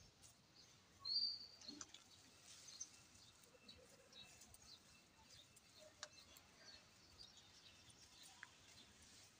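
A bird's single short, high chirp about a second in, over near silence with faint scattered ticks.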